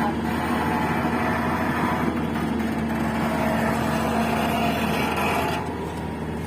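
Diesel engine of heavy earthmoving machinery running steadily, a low drone with a steady hum that fades out a little past the middle.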